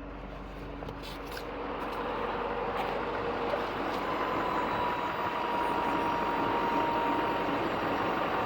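Steady mechanical running noise from the diesel dually truck, growing louder about two seconds in, with a thin steady whine through the middle.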